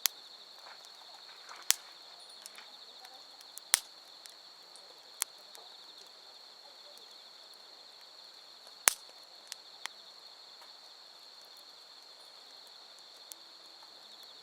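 A steady, high-pitched chorus of night insects, with a wood campfire crackling through it in scattered sharp pops, about eight in all, the loudest a little after three seconds in and around nine seconds in.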